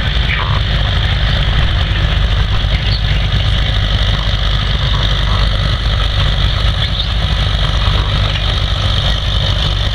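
McCormick W-6 tractor's engine running steadily under load as it pulls the sled, heard through its muffler rather than a straight pipe.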